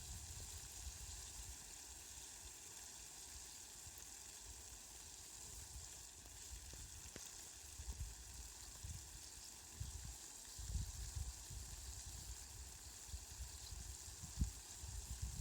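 Steady hiss of falling rain, fairly quiet, with uneven low rumbles coming and going in the second half.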